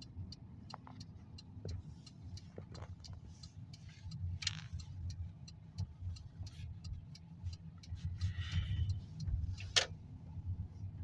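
A car driving, heard as a steady low engine and road rumble with many small clicks and rattles over it, and one sharper click near the end.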